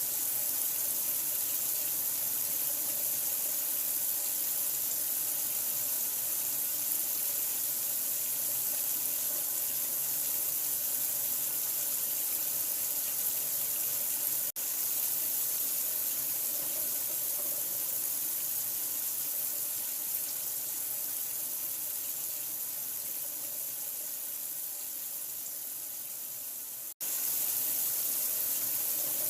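Steady running water, a continuous hiss like a tap running into a sink, broken by two momentary dropouts, about halfway through and near the end.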